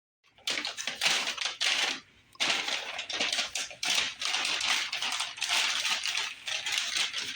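Rapid, scratchy scrubbing noise in two long stretches, with a short break about two seconds in.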